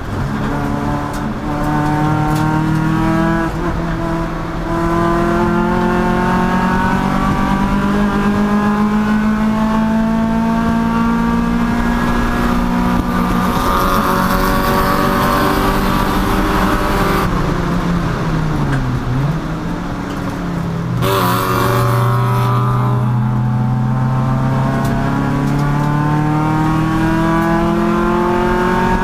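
Race car engine under hard acceleration, its pitch climbing through the gears with brief drops at the shifts. About two-thirds of the way through the pitch falls away as the car slows, then it climbs again to the end.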